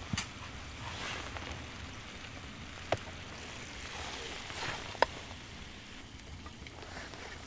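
Wood fire in a fire stand crackling, with three sharp pops about two seconds apart.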